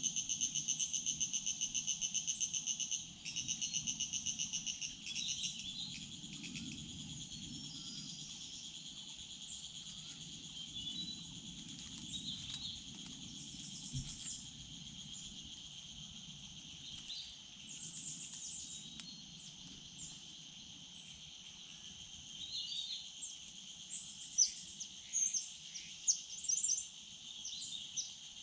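Steady chorus of calling insects, a fast pulsing trill for the first few seconds and then a smoother drone, with short bird chirps breaking in later.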